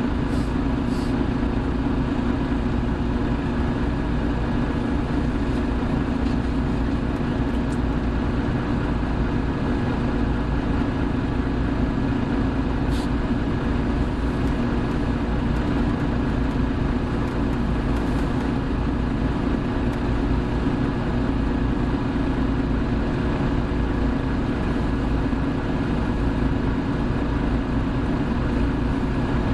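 Hino Blue Ribbon City Hybrid bus (HU8JLFP) running at a steady speed: a constant engine and road drone with faint steady whining tones above it, and a few brief clicks or rattles.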